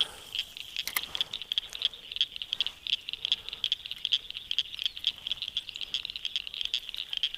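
Frogs calling in a rapid, high-pitched clicking chorus.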